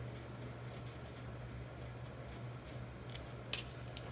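Quiet room tone: a steady low hum with two or three faint clicks about three seconds in.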